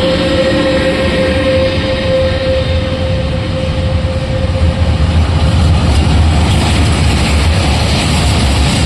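Siemens Vectron electric locomotive 111Ed hauling a freight train past. A steady tone fades out about three or four seconds in, while a low rumble of the train grows stronger.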